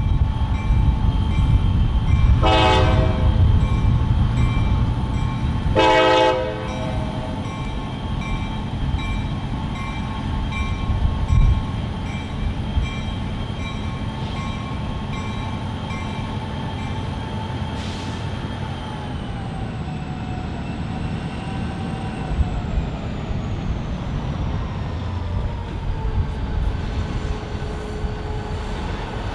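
EMD GP40-2 diesel locomotive switching in a rail yard, its engine running with a low rumble. It sounds two short horn blasts a few seconds apart early on. In the second half a steady whine slides down in pitch.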